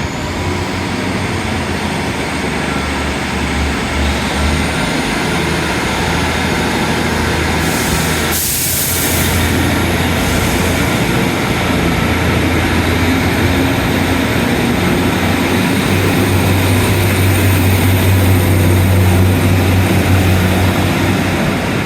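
Diesel passenger train running at the station platform, its engines giving a steady low drone that grows louder in the last few seconds, with a faint high squeal rising through the first few seconds and a short hiss about eight seconds in.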